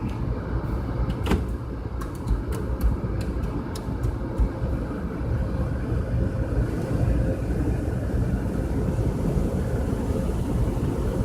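Car wash running: a steady low rumble with a run of sharp clicks and taps in the first few seconds, then a hiss of water spray that grows from about halfway.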